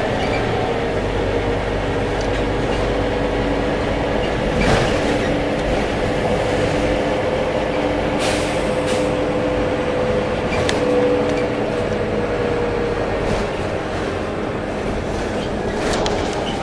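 Scania K310 bus under way: engine and drivetrain running steadily with a held whine, and a few short knocks and rattles along the way.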